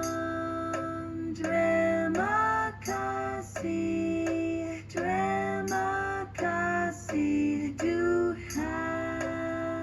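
AI-generated choir music for the alto part of a hymn: sustained pitched notes that change every half second to a second, over an accompaniment with faint regular ticks.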